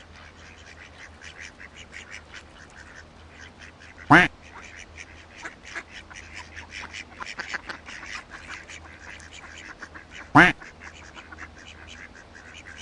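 A duck quacking: two loud single quacks, about four seconds in and again near the end, over a constant patter of softer, quick calls.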